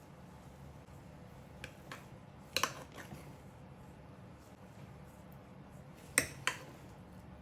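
Sharp clicks and taps of hard equipment being handled, coming in close pairs: a faint pair about one and a half seconds in, a louder cluster a little later, and the loudest pair near the end. A faint low hum runs underneath.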